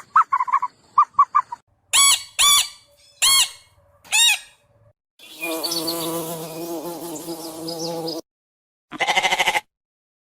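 A series of different animal calls that change abruptly from one to the next. Quick short chirps come first, then four arched calls, then a steady dense pitched sound for about three seconds, then one brief burst near the end.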